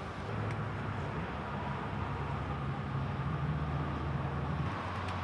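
A car engine running at low revs, its note rising slightly before it drops away about four and a half seconds in.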